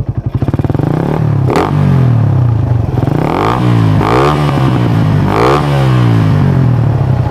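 Suzuki Raider 150 motorcycle's single-cylinder four-stroke engine revved through a gutted ("kalkal") stock muffler with its baffles hollowed out: it idles, then takes several throttle blips that rise and fall, then settles back toward idle near the end. This is a sound check of the loudened exhaust.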